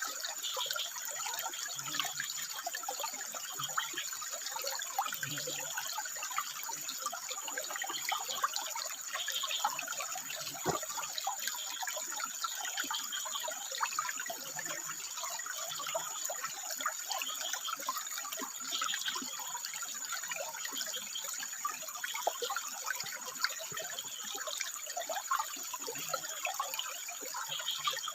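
Water running and splashing over rocks in a steady trickling, gushing flow, with frogs calling now and then over it.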